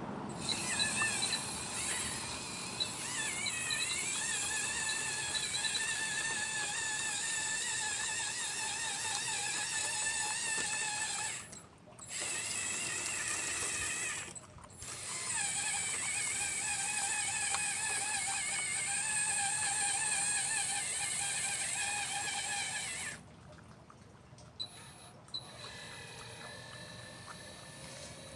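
A radio-controlled model Liebherr 954 excavator's motors whining as the machine works, the pitch wavering. The whine cuts out briefly twice and stops a few seconds before the end, leaving faint clicks.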